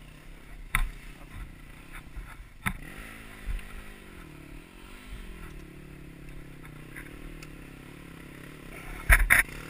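Enduro motorcycle engine coming in about three seconds in and idling, its pitch wavering with a few light revs before it settles steady. A few sharp knocks come before it, and two loud clattering knocks from the bike being handled come near the end.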